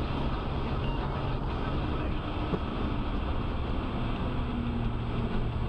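Steady road and engine noise of a moving vehicle, with a low hum.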